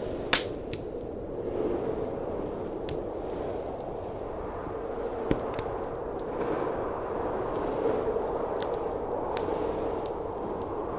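Blizzard wind blowing steadily, swelling and easing, with a wood fire crackling underneath: scattered sharp pops, the loudest just after the start and another near the middle.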